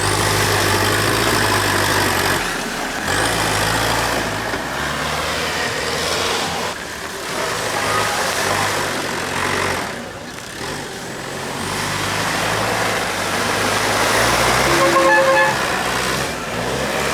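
Tractor engines running, their noise swelling and fading, with a short vehicle horn toot about fifteen seconds in.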